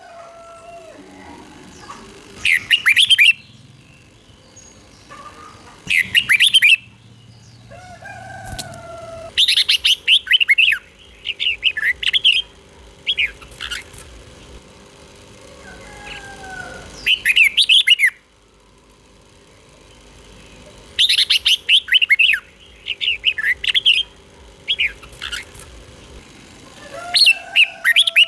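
Red-whiskered bulbul singing: short, loud, quick warbled phrases repeated every two to four seconds, with fainter lower whistled notes between them.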